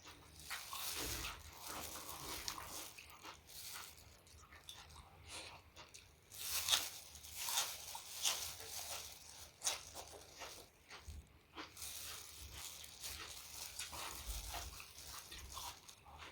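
Close-miked eating: irregular crunching and chewing of food, with many sharp crunchy bites.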